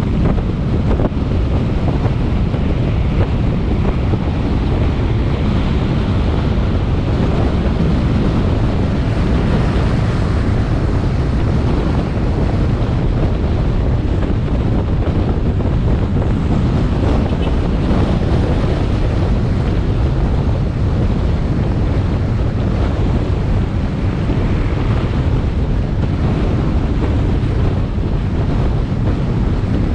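Steady wind rush buffeting an action camera's microphone on a moving motorbike, a continuous low rumble with motorbike engine and road noise mixed underneath.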